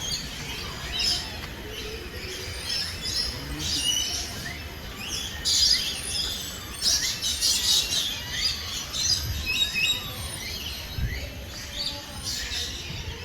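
Many birds chirping and calling over one another, a busy mix of short high chirps and whistles that is thickest about halfway through.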